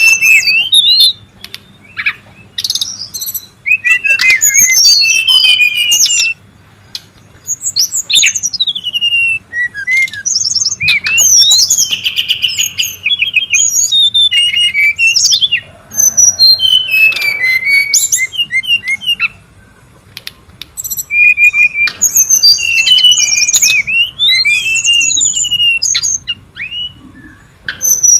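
Brown-chested jungle flycatcher singing and calling excitedly: bursts of quick, varied, high whistled phrases and chatter with short pauses between them, and a fast trill midway.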